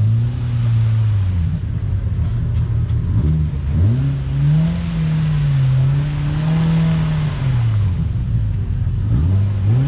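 Side-by-side UTV engine revving up and down, its pitch dropping off twice and climbing back.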